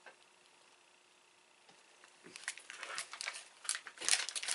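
Snack packaging crinkling and rustling as it is handled, starting about halfway in and growing denser and louder near the end.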